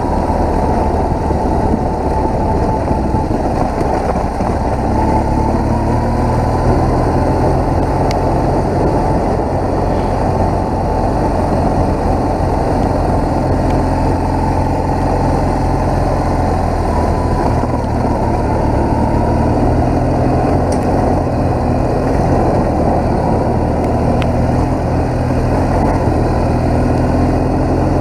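BMW R1200GS boxer-twin motorcycle engine running steadily under way, its hum mixed with a loud, constant rushing noise.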